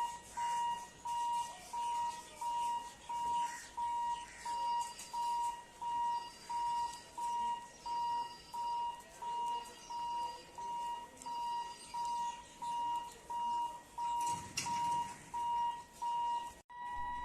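Electronic warning beeper sounding over and over in one steady, high tone, about three beeps every two seconds, over faint background noise. Near the end it cuts off abruptly and a steady two-note tone takes over.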